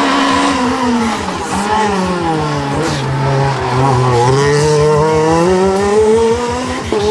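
Rally car engine coming off the throttle, its revs falling for about three and a half seconds, then climbing steadily as it accelerates away. The sound changes abruptly just before the end.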